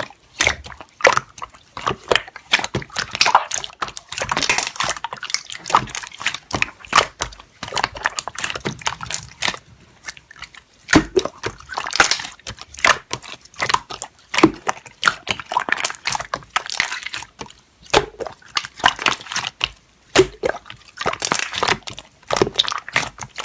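Slime being squished and pressed by hand, a dense run of wet clicks, pops and squelches.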